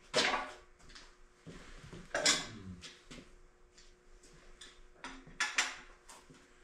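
Sharp metal clanks with a short ring: one just after the start, another about two seconds in, and two close together about five and a half seconds in, among softer handling knocks, as heavy tools and engine parts are set down and moved around.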